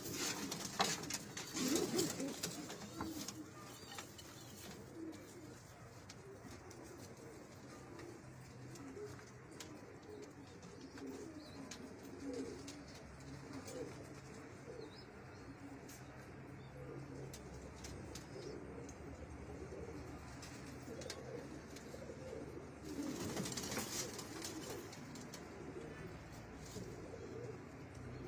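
Domestic pigeons cooing, low rolling coos overlapping one another throughout, with a couple of brief louder rustling noises near the start and again about twenty-three seconds in.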